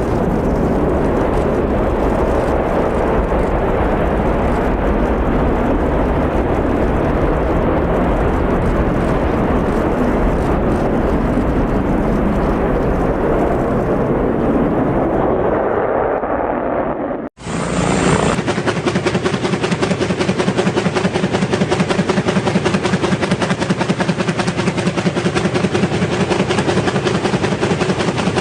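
A steady rushing aircraft noise, cut off abruptly about 17 seconds in. Then a helicopter's rotor chops fast and steadily to the end.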